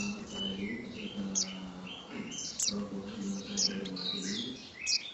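Small birds chirping over and over in quick, short, high calls, several in a row, with a low steady hum underneath.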